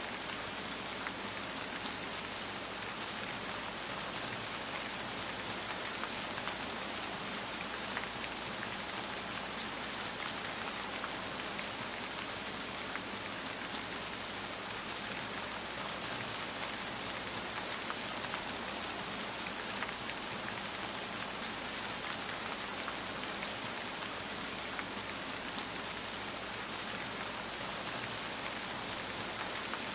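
Steady rain falling, an even hiss with faint scattered ticks of drops striking a surface.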